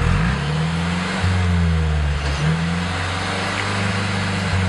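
Infiniti Q50 2.0T's turbocharged four-cylinder engine being revved through an aftermarket valved exhaust with the valve closed. The low exhaust note climbs at the start, then rises and falls in several blips.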